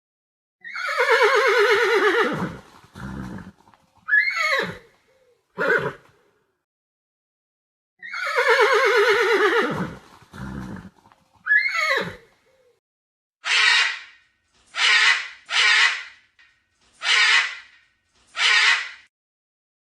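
Horse neighing: two long whinnies that fall in pitch, each followed by two short calls, then five short noisy bursts about a second apart in the second half.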